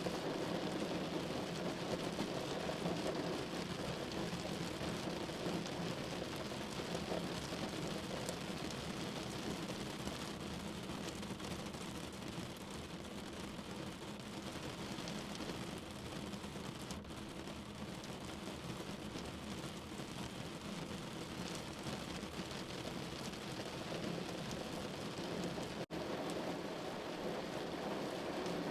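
Steady rain falling on a window pane, an even hiss and patter with no pauses. It cuts out for an instant near the end.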